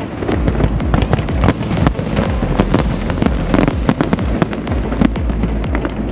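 Fireworks going off in rapid succession: many sharp cracks and pops over a continuous low booming rumble, with music playing underneath.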